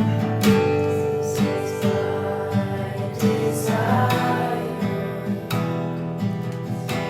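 Acoustic guitar strummed in steady chords, with a voice singing softly over it from about halfway through.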